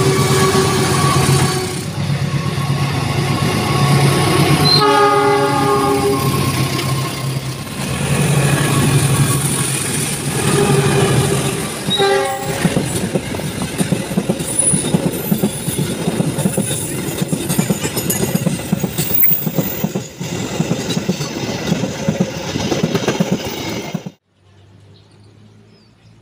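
Diesel-hauled train passing close by, engine drone and wheels running on the rails, with a long horn blast of several tones about five seconds in and a short horn blast around twelve seconds. The sound cuts off abruptly near the end.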